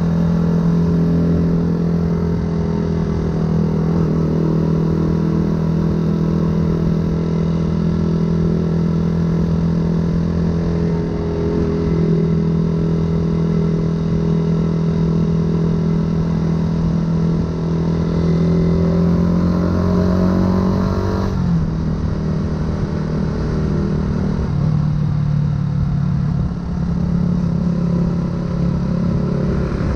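Yamaha R125's single-cylinder four-stroke engine, breathing through a full aftermarket exhaust, running at a steady cruise. About eighteen seconds in the revs climb for a few seconds, then drop abruptly and settle again.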